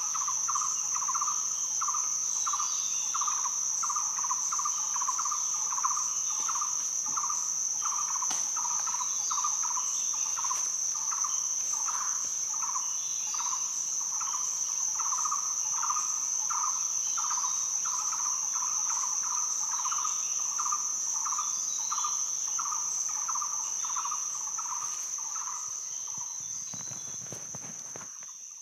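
Rainforest ambience: a steady high-pitched insect drone, a lower chirping call repeating about twice a second, and scattered bird chirps. It all fades out in the last few seconds.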